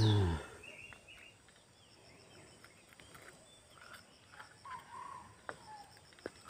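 Quiet outdoor ambience with scattered short bird-like chirps. It opens with a brief low sound falling in pitch, and a few light clicks come near the end.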